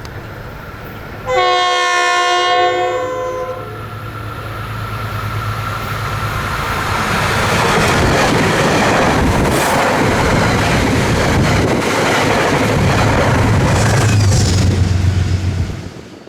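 Metro-North commuter train sounding one long horn blast about a second in, then running past on the rails, its rumble growing louder and holding loud until it cuts off near the end.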